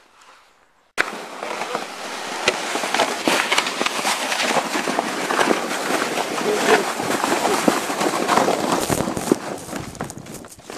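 Sled sliding fast over snow: a loud, dense crackling scrape with many sharp clicks that starts abruptly about a second in and eases off near the end.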